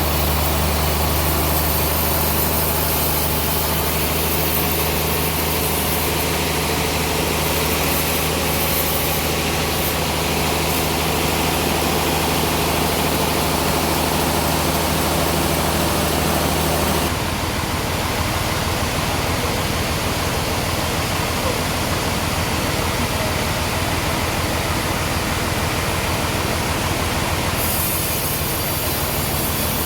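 Sawmill machinery running steadily; about halfway through, the even engine-like hum gives way to a rougher, noisier sound.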